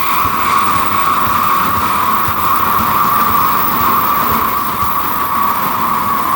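N700-series Shinkansen bullet train passing at speed: a steady loud rushing noise with a continuous high tone.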